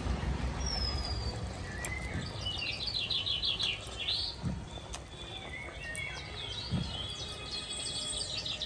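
Several birds chirping and calling, with a quick run of repeated chirps a couple of seconds in and more calls near the end, over a faint steady background hiss.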